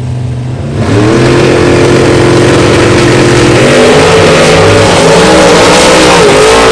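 A vehicle engine revving loudly: it climbs in pitch about a second in and holds steady, then from about halfway through is blipped up and down several times.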